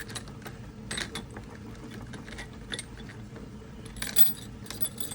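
Small steel parts of a machinist depth gauge clinking against each other and the basket as they are handled and set down. There are a few sharp clinks, the loudest about a second in and around four seconds in.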